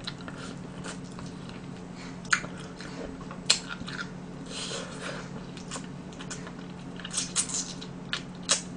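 Close-up chewing and biting of sauced roasted chicken, with scattered short wet smacks and clicks and a small cluster of them near the end. A faint steady hum lies underneath.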